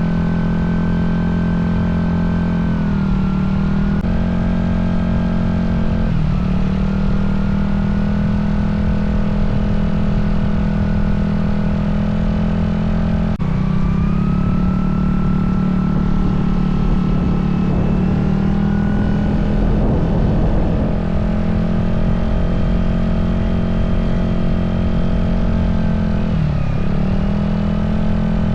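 Aprilia SR GT 200 scooter's single-cylinder engine running through an aftermarket slip-on muffler. It holds a steady high speed, and the revs dip briefly and recover a few times.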